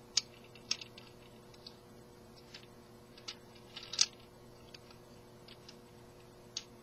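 Plastic Transformers action figure being handled: scattered, irregular small clicks and taps of plastic parts and joints being moved, the loudest about four seconds in, over a faint steady hum.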